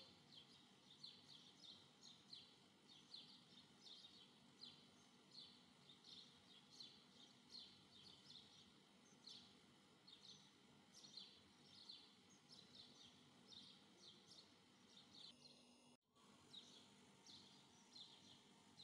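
Faint, steady bird chirping: short high chirps two or three times a second. It drops out for a moment about sixteen seconds in.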